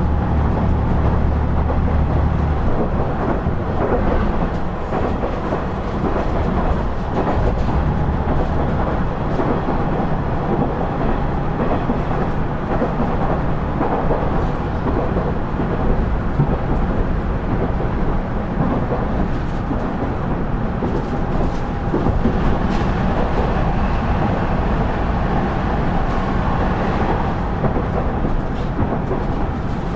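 KiHa 110-series (KiHa 112) diesel railcar running: a steady rumble of wheels on rail under the diesel engine's drone. The engine note steps down about two and a half seconds in. Faint clicks from rail joints come now and then.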